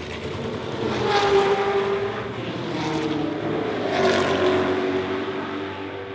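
Historic racing cars passing at speed on a circuit, one after another, each engine note swelling and falling as it goes by.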